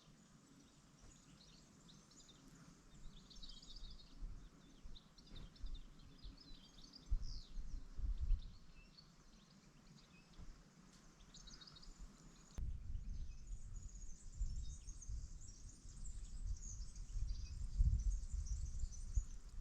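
Small birds chirping and twittering in short high calls, over irregular low rumbling noise that grows heavier about two-thirds of the way through.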